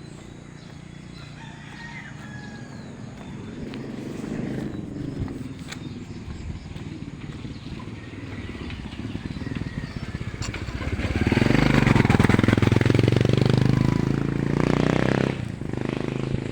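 A motorbike passing close by, its engine growing louder and then fading, loudest about eleven to fifteen seconds in, with roosters crowing in the background.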